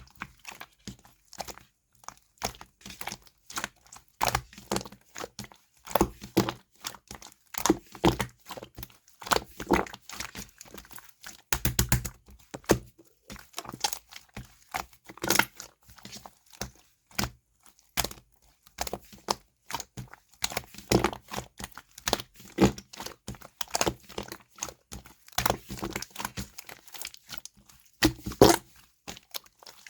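Slime being squished and stretched by hand: a steady, irregular run of short sharp clicks, pops and snaps.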